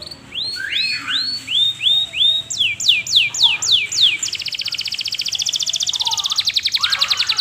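Canary singing loud, ringing song in repeated phrases. It begins with a run of falling sweeps, about three a second, then faster, higher sweeps, and from about four seconds in a rapid, even trill.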